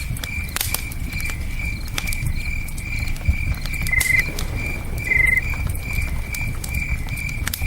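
Campfire crackling with scattered sharp pops, over a low river rush, while crickets chirp steadily a little over twice a second. Two short, quick trills come about four and five seconds in.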